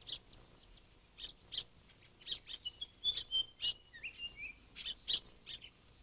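Small birds chirping faintly, a scatter of short high chirps throughout, with a short run of thin whistled notes in the middle.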